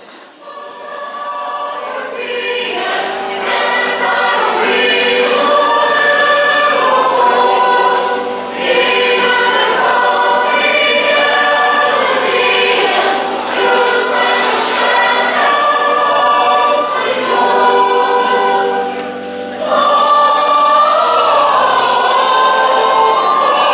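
Church choir singing a sacred song, swelling in over the first couple of seconds, with short breaks between phrases about 8 and 19 seconds in.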